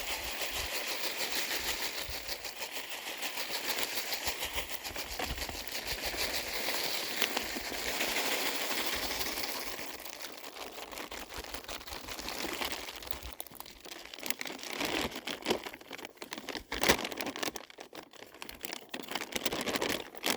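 A bag of birdseed crinkling and rustling as it is handled and emptied. The crackling is dense for about the first half, then thins to scattered crinkles and clicks.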